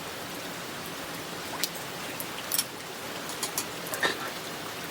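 Steady rain falling, with a few scattered sharp ticks of drops landing.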